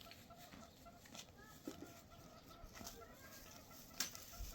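Chickens clucking faintly in short, repeated notes, with one sharp click about four seconds in.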